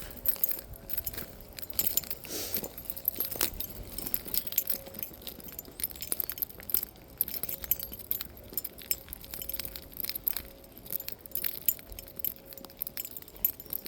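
Light metallic jingling and clinking, many small irregular clicks, like keys or small metal fittings jangling while someone moves about.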